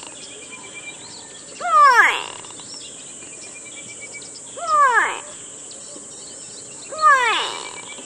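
Grey go-away-bird giving its drawn-out, downward 'g'waaay' call three times, roughly every two and a half to three seconds. Each call rises briefly and then falls in pitch. Faint high trills of other small birds can be heard between the calls.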